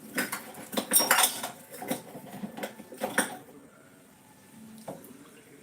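Dishes and cutlery clinking and clattering for about three seconds, then a single knock near the end.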